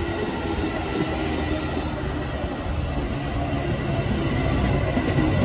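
A train rolling along the track: a steady rumble of wheels on rail with a faint high squeal. It grows slightly louder near the end.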